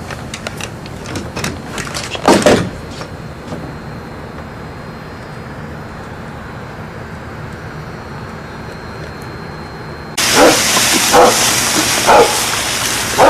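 A dog barking several times, about a second apart, over a loud hiss that starts suddenly in the last few seconds. Before that there are a few light knocks and one louder short sound about two seconds in.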